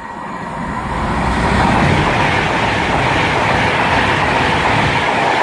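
A Class 390 Pendolino electric train passes through the station at speed. Its rush of air and wheel noise builds over the first second and a half, then holds steady and loud.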